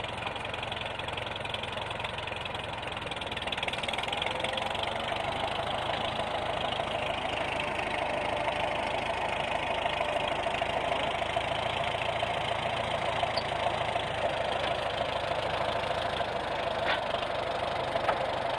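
An engine runs steadily at a low speed, growing a little louder a few seconds in.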